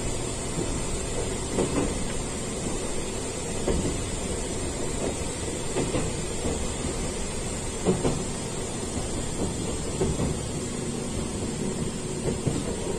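Gakunan Railway electric train running along the track, heard from inside the cab: a steady rumble with scattered knocks and rattles.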